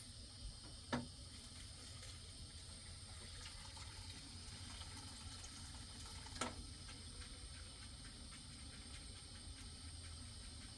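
Faint, steady hiss of light rain, with two sharp drips or taps about five seconds apart.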